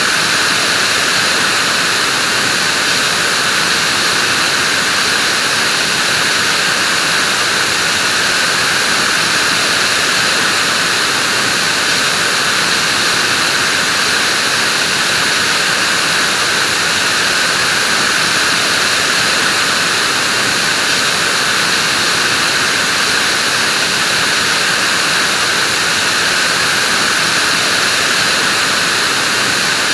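Vacuum cleaner running steadily, a constant even whooshing hiss with no change in pitch or level.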